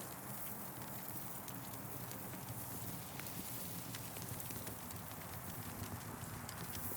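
Campfire crackling: irregular small snaps and pops over a steady low rush of the burning fire.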